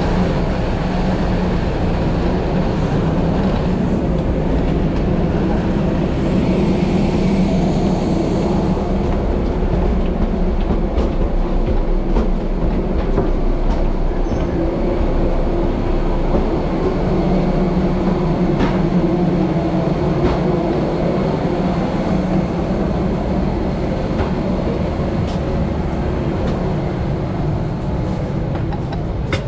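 Steady low rumble and hum inside a moving vehicle, with a few faint clicks and rattles.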